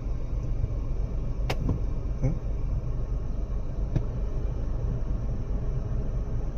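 Steady low hum of a Tata Altroz cabin with the engine idling and the AC blower running, with a few separate light clicks about one and a half, two and four seconds in. These are the AC damper ticks, which the owner calls normal for Tata.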